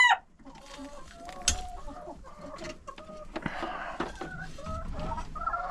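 Hens clucking softly with short, broken calls, and a few light clicks in between. A rooster's crow cuts off just as it begins.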